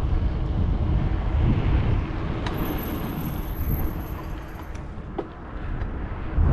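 Wind buffeting the microphone while cycling, over the rumble of road traffic; it eases off somewhat in the second half.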